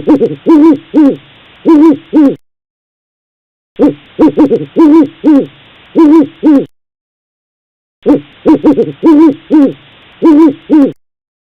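Owl hooting: a run of six or seven hoots, played three times over with a short silence between.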